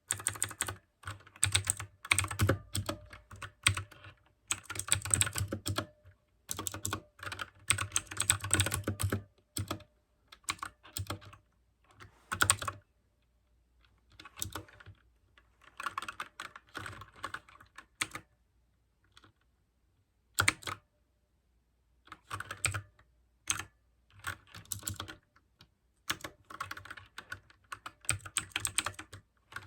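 Mechanical keyboard with clicky blue switches being typed on in quick runs of keystrokes, stopping for a second or two now and then before the typing picks up again.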